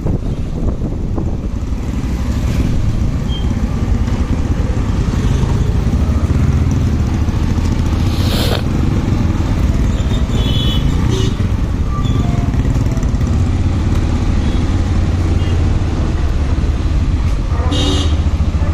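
Motorcycle engine running steadily while riding, with wind rushing on the microphone. Brief high-pitched tonal sounds come about ten seconds in and again near the end.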